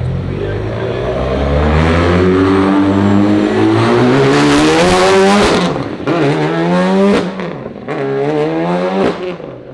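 Rally car engine accelerating hard through the gears: a long climb in pitch, then three quicker climbs, each starting with a sudden drop in pitch at an upshift.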